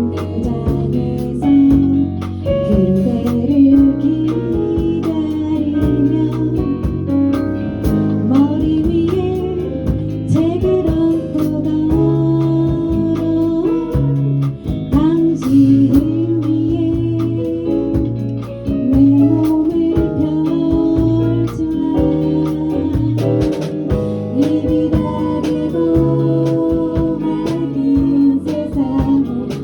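A small group singing a song in harmony over instrumental accompaniment with a steady rhythmic strum, in rehearsal.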